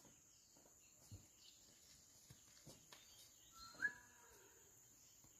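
Quiet outdoor ambience with a few faint bird chirps, one short rising chirp a little after the middle, and a few soft clicks.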